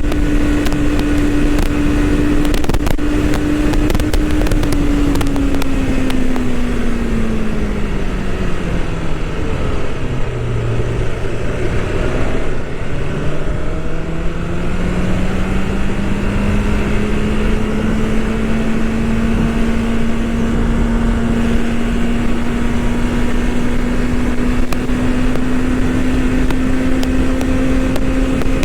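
BMW S1000RR superbike's inline-four engine on the move, holding a steady pitch, then dropping low as the bike slows about ten seconds in and climbing gradually again as it picks up speed. Wind rushes over the microphone.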